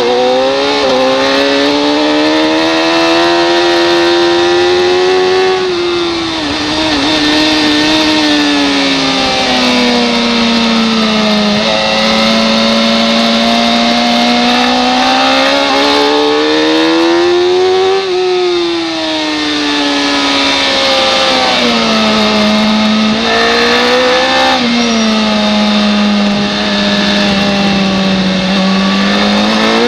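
Racing motorcycle engine at full race pace, its pitch climbing hard under acceleration and falling away sharply as the rider rolls off and downshifts for corners, twice in the middle and with smaller dips later, then climbing again near the end. A steady rush of wind noise runs underneath.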